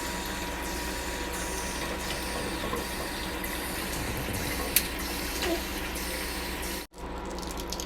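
Kitchen tap running steadily into the sink, cutting out for an instant near the end.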